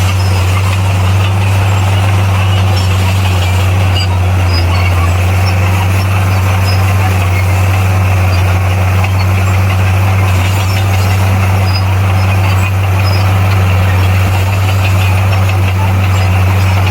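Komatsu D58P bulldozer's diesel engine running at a steady, unchanging pitch, a loud low hum.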